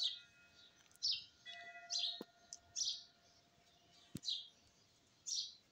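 Birds chirping faintly, short falling high-pitched chirps about once a second, with a single sharp click about four seconds in.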